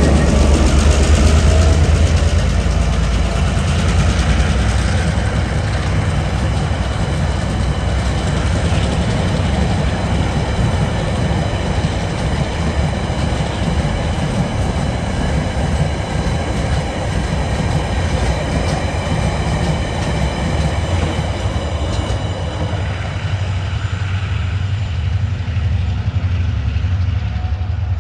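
Empty ore train passing close by: the last diesel locomotives and then a long run of empty steel ore wagons rolling over the rails. It makes a steady heavy rumble with wheel clatter and a thin, steady high-pitched ringing over it. It eases off slightly near the end as the train moves away.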